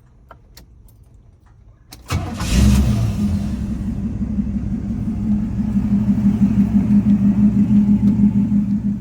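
A few faint clicks, then a car engine starts about two seconds in, flares briefly and settles into a steady, evenly pulsing idle. The car is the 1979 Pontiac Firebird on show.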